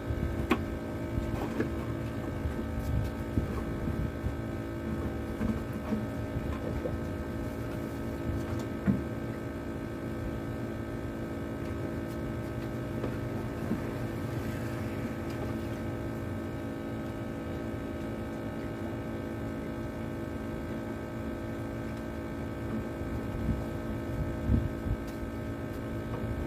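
An engine running steadily at one unchanging speed, with a few sharp knocks over it; the sound stops abruptly at the end.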